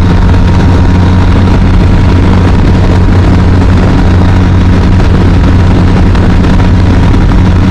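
BMW R 1250 RT's boxer-twin engine running at a steady cruise, its pitch holding level, with wind rush over the microphone.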